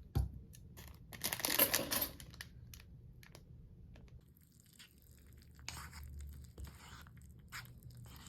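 Close rustling and crinkling handling noise with a sharp click near the start and scattered small clicks, the loudest rustle about one to two seconds in and a softer one around six seconds.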